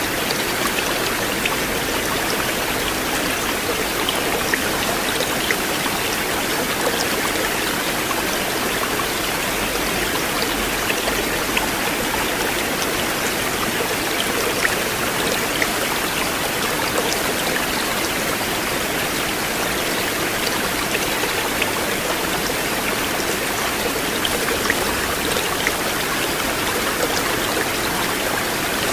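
River water flowing steadily: an even rush of water with small splashes and drips ticking through it.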